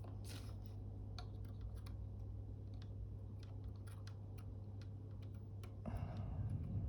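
Faint scattered ticks and light taps of small tools working inside a Fuji GA645 camera as glue is cleaned off its shutter flex cable, over a steady low hum. A short rubbing or scraping sound comes about six seconds in.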